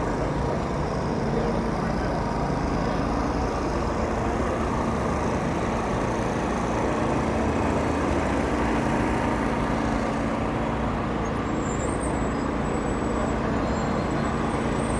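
Food-truck generators running together: a steady engine hum over constant noise.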